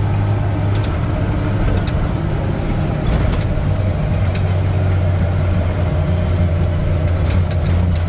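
A truck engine running at a steady, even speed, with a few light clicks and rattles over it.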